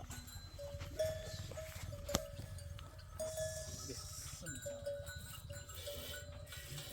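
Bells on goats and sheep ringing irregularly as the flock moves, short clear clinks over a low rumble, with one sharp click about two seconds in.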